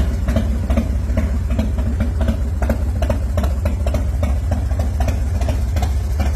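S&S 111 cubic inch Super Sidewinder V-twin engine of a 2003 MCC custom Harley idling steadily, with a regular pulsing beat of a few strokes a second.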